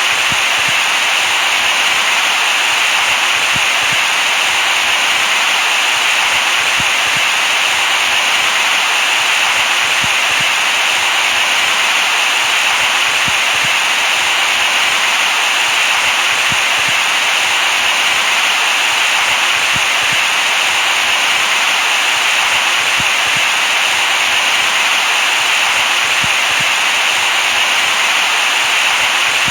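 Steady synthetic white noise, an even hiss strongest in the upper-middle range, with no change in loudness.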